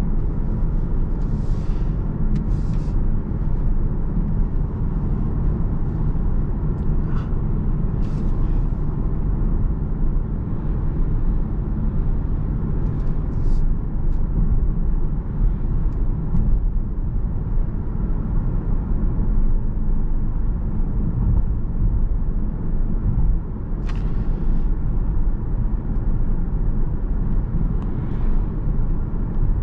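Steady low road and engine rumble of a car driving at speed, heard from inside the cabin, with a few faint short ticks scattered through.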